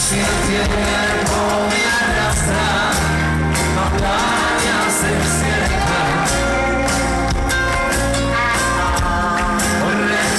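Live pop-rock band playing with a lead vocal over drums, bass and guitars, loud and steady throughout.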